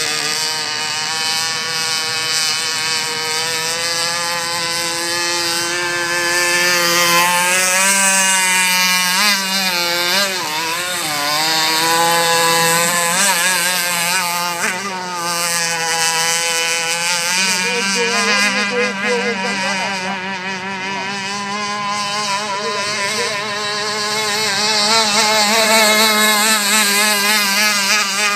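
Radio-controlled model boat's small motor whining at high revs, its pitch rising, falling and wavering as the throttle and load change.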